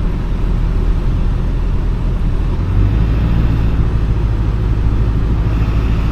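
Vehicle engine and road noise while driving: a steady low rumble that grows heavier a little under three seconds in.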